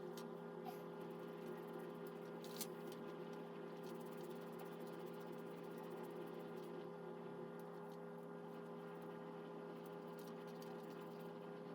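A steady, faint electrical hum at several fixed pitches, with a couple of faint clicks in the first few seconds.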